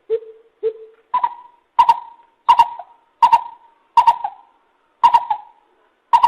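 Lesser coucal calling a series of short notes, about one every two-thirds of a second. The first two are lower, the rest higher.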